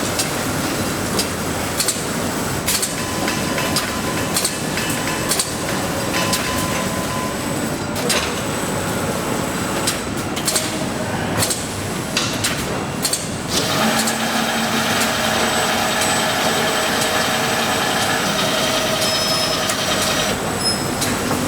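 Factory production machinery running: a continuous mechanical clatter with many sharp clicks. About two-thirds of the way in, a steady machine hum of several tones joins it.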